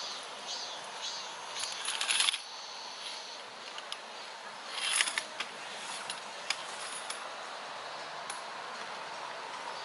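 Small objects being handled: two short bursts of rustling and clattering, about two and five seconds in, with scattered light clicks over a steady hiss.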